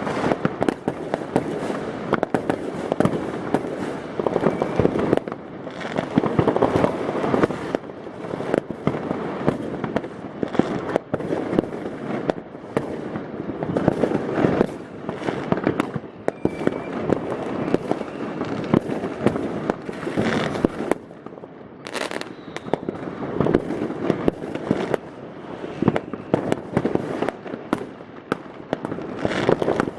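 Dense New Year's Eve fireworks going off all around: a continuous barrage of rocket bangs and firecracker crackle, many overlapping from different distances and echoing off the buildings, thinning briefly about two-thirds of the way through.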